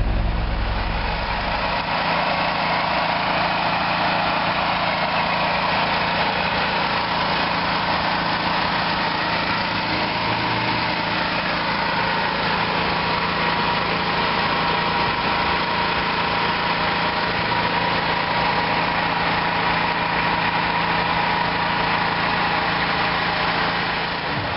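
Vehicle engine idling steadily. A deep bass tone drops out about two seconds in.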